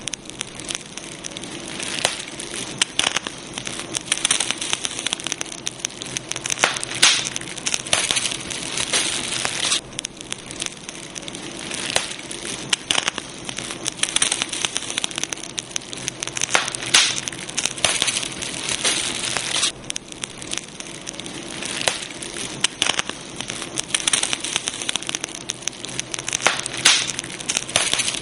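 Campfire burning steadily, the wood crackling with many sharp pops and snaps over a low hiss of flame.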